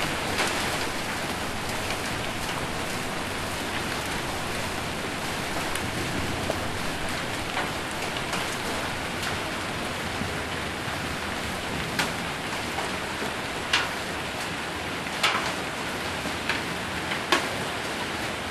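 Heavy rain drumming steadily on a metal roof, with scattered sharper knocks of hailstones or heavy drops, more of them in the second half.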